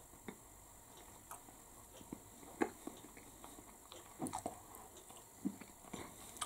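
Close-up chewing of a flaky puff-pastry bake: faint, irregular mouth clicks and crackles, a little stronger a few times in the middle.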